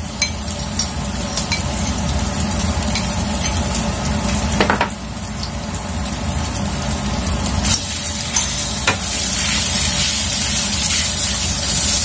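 Minced chicken and garlic frying in hot oil in a pan, a steady sizzle with a few sharp clicks and a knock about halfway through. The sizzle grows louder in the last few seconds as the meat is stirred.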